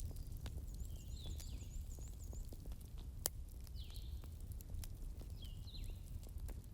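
Campfire crackling over a low steady rumble, with many small snaps and one sharp pop about three seconds in. Birds chirp in the background in short repeated calls.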